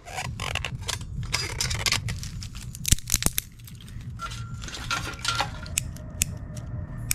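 Camp cooking gear being handled: a run of metal clinks and rattles with rustling, a couple of the clinks ringing briefly about four to five seconds in.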